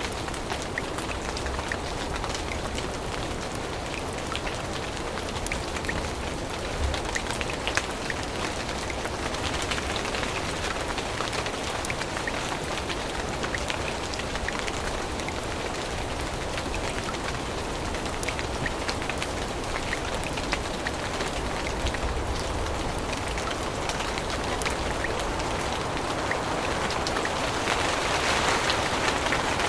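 Steady rain falling on forest leaves, with many fine drop ticks, swelling a little louder near the end.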